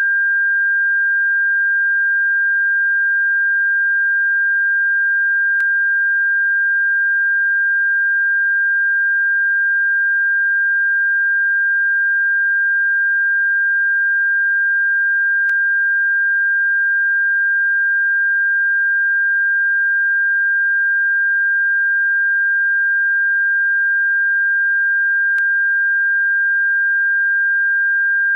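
Electronically generated pure sine tone sold as a bird repellent, held steady at one pitch without any change. Faint clicks come about every ten seconds.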